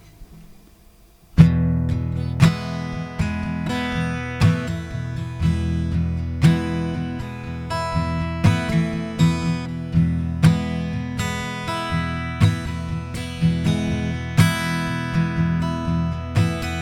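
Acoustic guitar strumming chords in a steady rhythm, starting about a second in after a short quiet pause.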